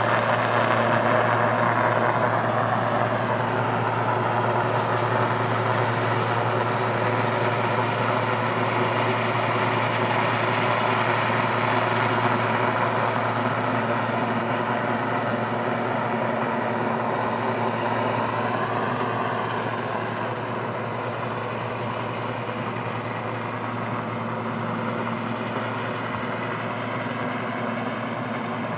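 Helicopter flying nearby: a continuous, steady rotor and turbine drone with several steady tones, wavering slightly in pitch about two-thirds of the way through and easing a little in level toward the end.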